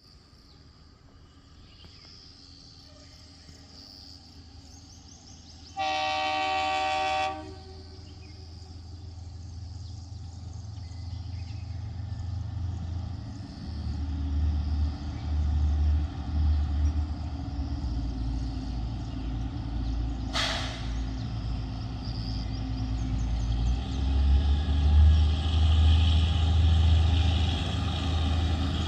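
Kalka–Shimla narrow-gauge train sounding one horn blast of about a second and a half, then its engine rumble growing steadily louder as it approaches. There is a single sharp click about two-thirds of the way through.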